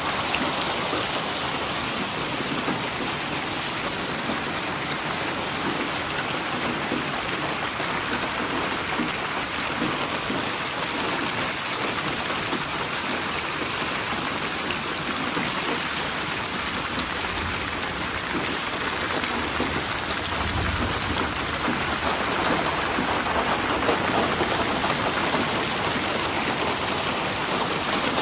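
Steady rain falling and pattering on surfaces, with a brief low rumble about twenty seconds in.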